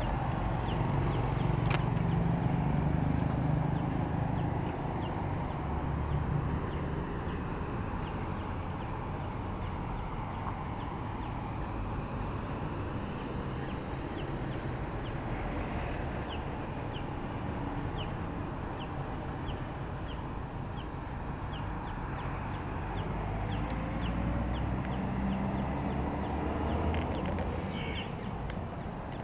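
A small bird chirping over and over, short high chirps coming about once or twice a second, over a steady low rumble.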